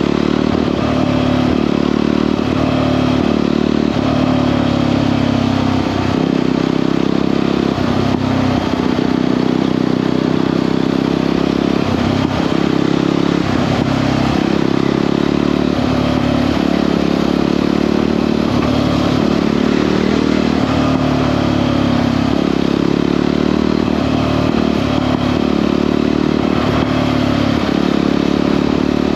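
Jawa 42 motorcycle's single-cylinder engine running steadily while cruising at highway speed, its pitch rising and falling a little with the throttle.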